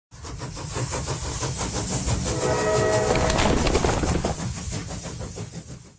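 A train running with a rapid, even clatter of wheels over the rails. A horn sounds for about a second partway through, and the sound fades away near the end.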